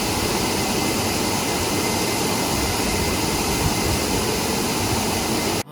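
Waterfall roaring steadily, cutting off suddenly at the very end.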